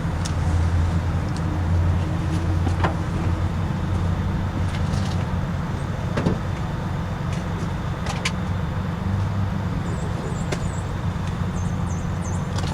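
Steady low vehicle rumble, with a few scattered clicks and knocks from handling things in the car.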